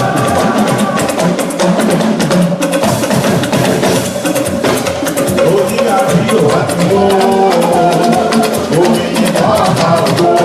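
Live praise music driven by a busy, steady percussion pattern of sharp wood-block-like clicks and drums. Singing drops out about a second in and returns in the second half.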